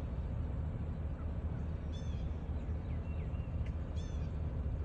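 Short, high bird calls repeating about every two seconds, over a steady low rumble.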